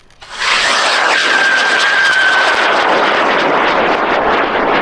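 Aerotech L850 high-power rocket motor lighting a moment in and burning with a loud, steady roar as the rocket lifts off. The ignition comes several seconds after the countdown, a reluctant start.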